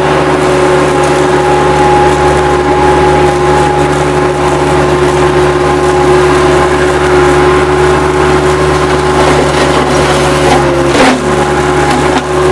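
Bobcat 763 skid-steer loader's diesel engine running steadily at high throttle. Near the end the engine note dips briefly, with a sharp crack.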